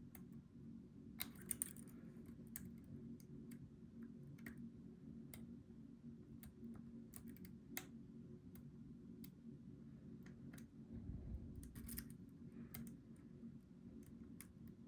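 Faint, scattered metallic clicks and ticks of a steel hook pick and tension tool working the pins inside a Goal V18 lock, with louder clusters of clicks about a second and a half in and again near twelve seconds. A steady low hum lies underneath.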